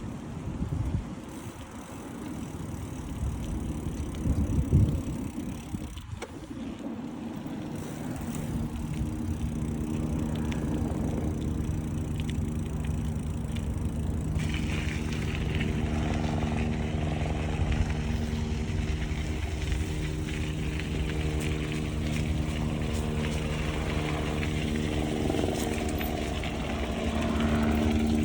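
Wind buffeting the microphone in gusts, then from about eight seconds in a steady engine hum holding one pitch.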